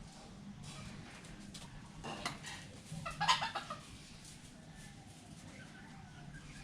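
Red junglefowl calling: two short calls, a weaker one about two seconds in and a louder one about a second later, over a faint steady low hum.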